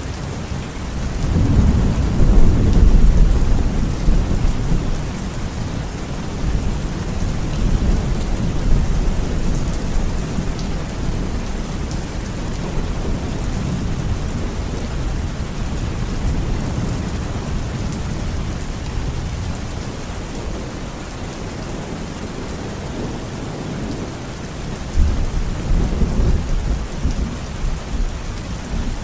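Steady rain with low rolling thunder, the rumble swelling a couple of seconds in and again near the end.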